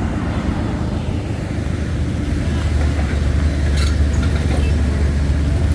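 Heavy diesel engine running steadily with a deep low rumble that swells a little about three seconds in.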